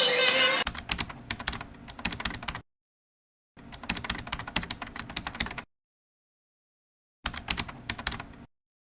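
Intro music ends about a second in, followed by three bursts of rapid, irregular clicking, like typing, separated by silent gaps.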